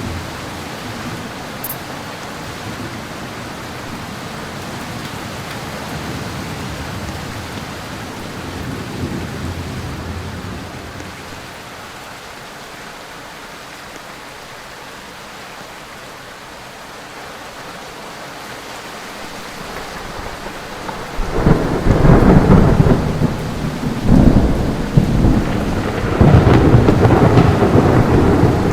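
Ceiling fan running, a steady rush of moving air. About 21 seconds in, the airflow starts buffeting the microphone in loud, uneven rumbling gusts.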